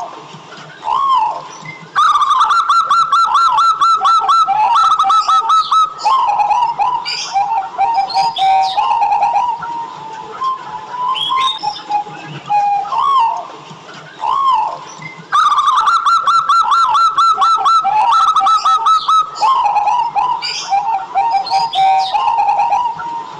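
Zebra doves cooing: two fast runs of rapid staccato notes, one starting about two seconds in and another past the middle, each lasting about four seconds, with single rising-and-falling coos between them.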